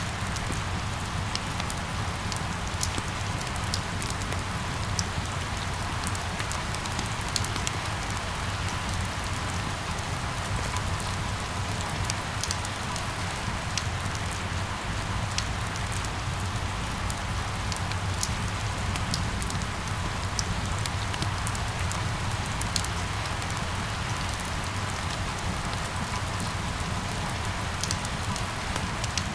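Steady rain falling, with many scattered sharp drop ticks over an even hiss and a low steady rumble underneath.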